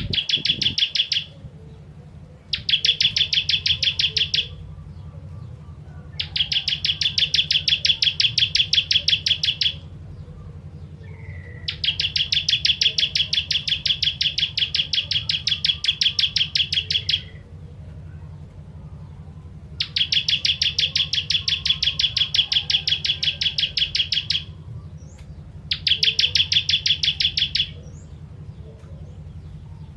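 Ciblek kristal (bar-winged prinia) singing its rapid, rattling song: six fast strings of repeated sharp, high notes, each a few seconds long, separated by short pauses. A steady low hum runs underneath.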